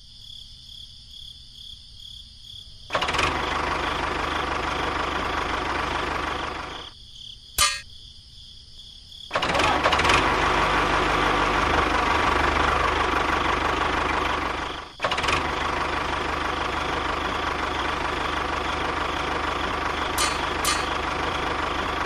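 Tractor engine running, starting up about three seconds in, dropping away for a couple of seconds with a single sharp click in the gap, then running steadily again from about nine seconds on.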